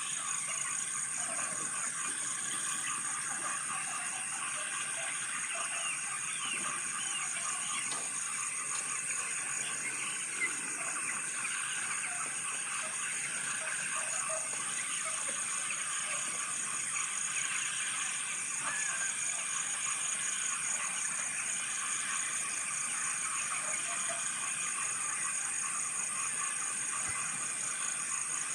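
A flock of broiler chickens peeping and chirping continuously in a dense, overlapping chorus, over a steady high-pitched pulsing buzz.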